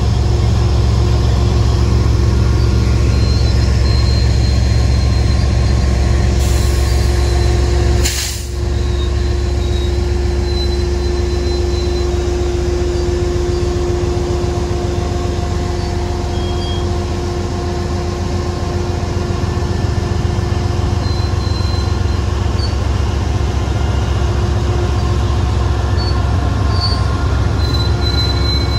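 Freight train rolling past: a steady heavy rumble of wheels on rail, with thin steady wheel-squeal tones above it. About eight seconds in there is a brief click and a short dip in the sound.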